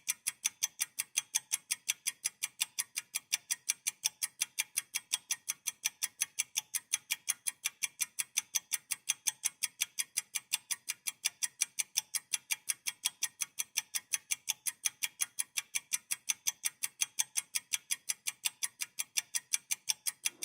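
Steady, rapid ticking like a clock or stopwatch, about four to five sharp ticks a second, evenly spaced throughout.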